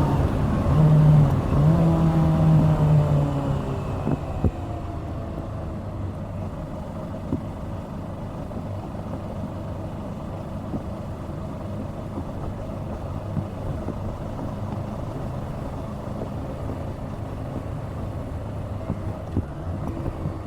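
Kawasaki Z650's 649 cc parallel-twin engine pulling under throttle, its note rising, with a short break about a second and a half in. Around four seconds in the throttle eases off and the engine settles to a lower, steady run under road and wind noise.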